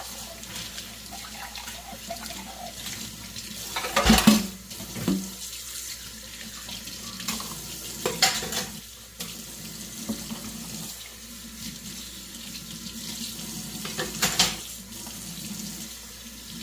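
Water running from a tap into a sink while dishes are washed by hand, with dishes clattering three times, about four, eight and fourteen seconds in.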